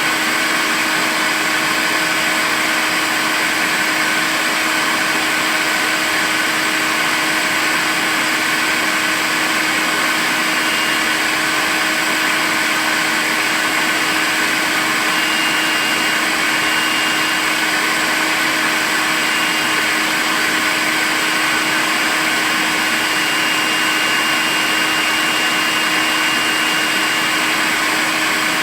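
Makita cordless vacuum cleaner running steadily: a constant rush of air over a steady motor hum, with a faint high whine that comes and goes.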